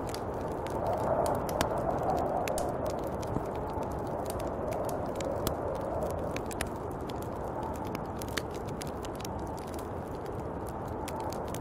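Snowstorm wind blowing steadily in slow, gentle swells, with many scattered light, sharp ticks and crackles over it.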